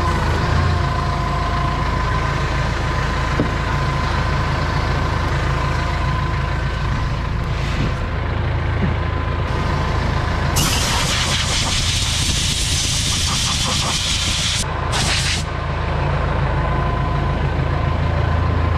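A heavy engine running steadily. Over it, about ten seconds in, a long blast of compressed air hisses for about four seconds, breaks off briefly, then hisses again for about a second: an air gun blowing dirt away for cleaning.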